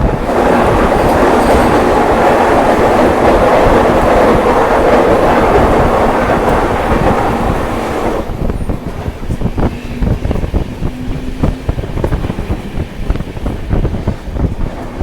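Passenger train running on the track. A loud rushing roar for about the first eight seconds cuts off suddenly, leaving a quieter rumble with a run of wheel clicks over the rail joints.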